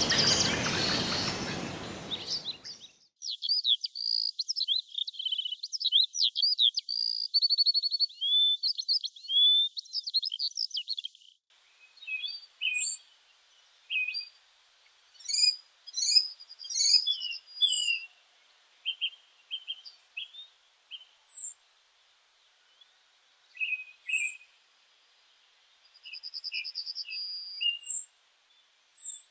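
Woodland birdsong. A rushing noise fades out in the first two seconds, then one bird sings a long, continuous high warbling song. From about eleven seconds in, several birds give separate chirps, short high downward notes and brief held whistles.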